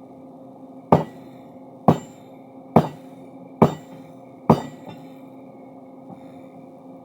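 Five heavy hammer blows on steel, about one a second, each with a short ring, over a steady low machine hum: forging a steel crowbar.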